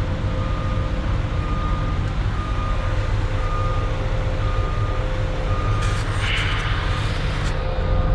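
Concrete mixer truck's diesel engine running steadily while a backup alarm beeps about once a second. A brief hiss with a few clicks comes in about six seconds in and stops near the end.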